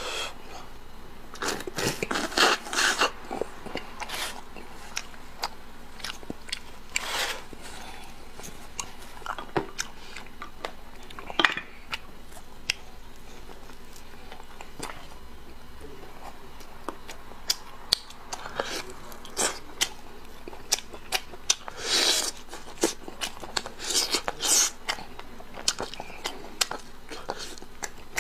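Close-up eating sounds of a person chewing and biting braised pork leg: many short mouth clicks and smacks, with louder clusters of bites a few times.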